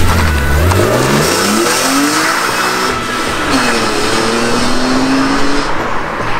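BMW E46 M3's S54 straight-six revving hard as the car pulls away under acceleration. The pitch climbs steeply, drops once at an upshift of the manual gearbox and climbs again, then holds a steadier note that fades as the car goes into the distance.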